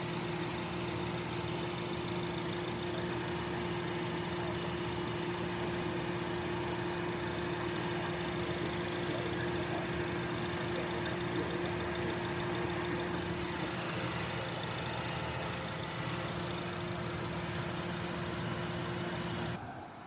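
Honda Accord engine idling with the AC running and the radiator cooling fan running constantly rather than cycling on and off, a steady hum that cuts off just before the end.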